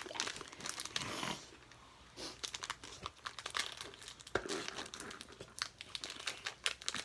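Plastic wafer-snack wrapper being crinkled and torn open by hand, in irregular crackles with a short ripping stretch about a second in.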